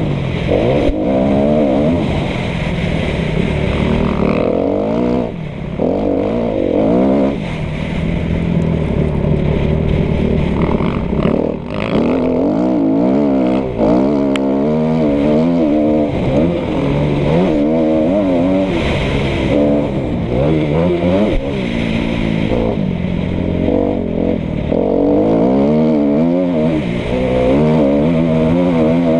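Kawasaki KX250F four-stroke single-cylinder motocross engine being ridden hard, its pitch rising and falling over and over as the throttle opens and closes through the gears. A few brief dips come where the throttle is shut off.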